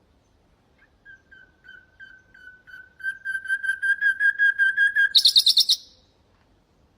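Common nightingale singing one phrase: a run of repeated whistled notes that grow louder and faster, ending in a brief, fast, high rattle.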